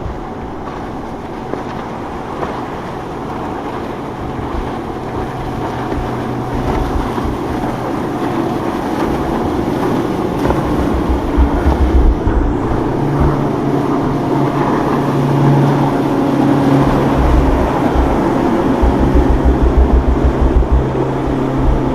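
Boat engines running as boats pass through the inlet, getting louder over the first half and then holding steady, with gusts of wind on the microphone.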